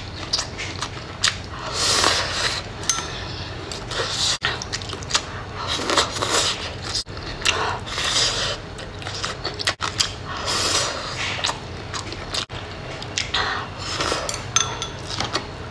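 Someone eating a stir-fried dish: chewing and biting, with utensils clicking and scraping against a plate or bowl in short, uneven bursts.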